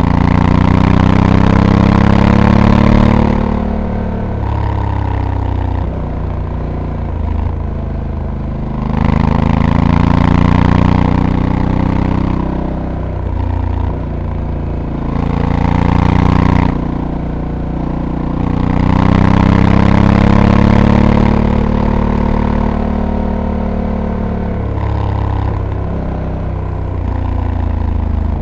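Honda Africa Twin's 1084 cc parallel-twin engine, heard from the bike while riding, opening up and easing off in turn. Its pitch climbs and falls again and again, with four louder pulls: at the start, about 9 and 15 seconds in, and around 19 to 21 seconds.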